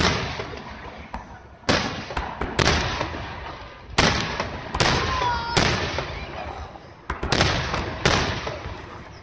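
Aerial fireworks shells bursting in quick succession, about ten sharp booms in nine seconds. Each boom is followed by a long, fading rumble.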